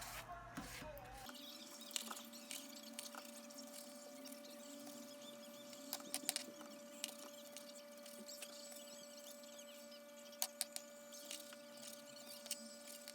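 A faint steady electrical hum starting about a second in, with a few scattered light clicks.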